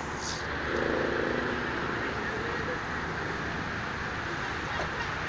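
Steady hum of road traffic, with faint voices about a second in.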